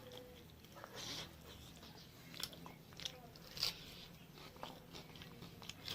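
A person eating close to the microphone: chewing and biting, with short sharp clicks at irregular moments, the loudest a little past three and a half seconds in.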